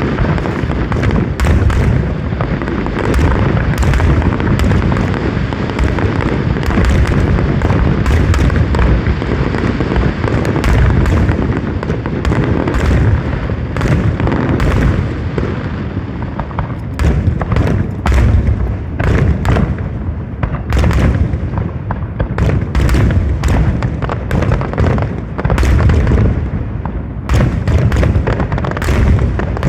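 Fireworks display: a continuous run of booming shell bursts and sharp crackling reports, many a second, over a heavy low rumble.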